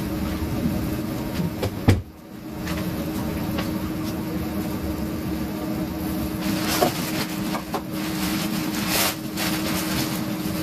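Stovetop cooking: a steady mechanical hum under the frying, with a sharp knock of a utensil or pan about two seconds in and a few short scraping or clattering bursts later on.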